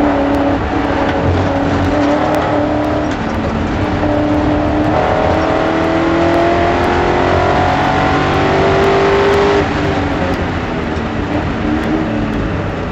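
BMW E30 race car's S62 V8 under hard acceleration, heard onboard: its pitch climbs steadily for several seconds, drops abruptly near the ten-second mark, then starts climbing again.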